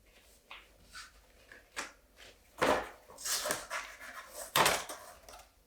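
Handling sounds as a block of soft homemade soap is worked out of its mold: a few scattered clicks, scrapes and knocks, the loudest knock near the end.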